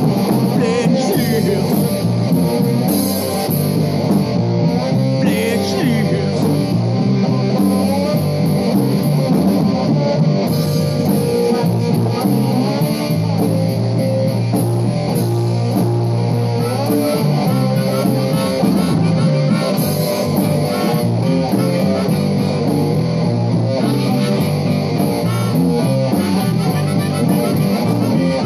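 Rock band playing live without vocals: electric guitars, bass guitar and drums, with cymbals keeping a steady beat.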